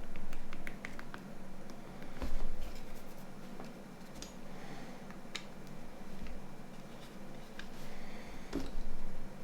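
Plastic parts of a Nokia 9210's body shell being handled and fitted: a run of light clicks and taps, with a duller knock about two seconds in and another near the end.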